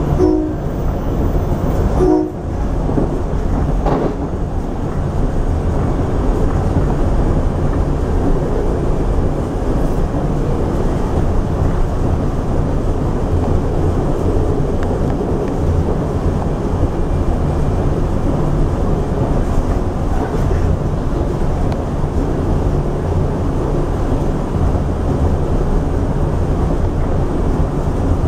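Rotem Silverliner V electric commuter railcar running at speed, heard from inside the car: a steady rumble of wheels on rail. Two short blasts of the train's horn sound about half a second and two seconds in, as it passes a grade crossing.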